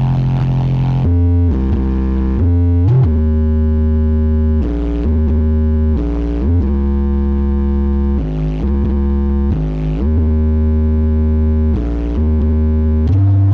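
Loud synthesizer music blasting from a 'sound horeg' carnival sound system, with heavy sustained bass notes that change every second or two and slide in pitch from one note to the next.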